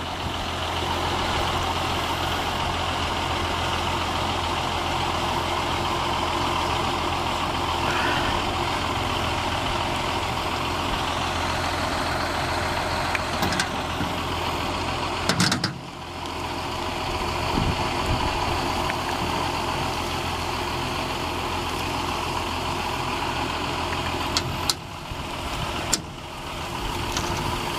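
Big tractor's engine running steadily during a chain tow, with a sharp knock about halfway through and a couple of brief clicks near the end.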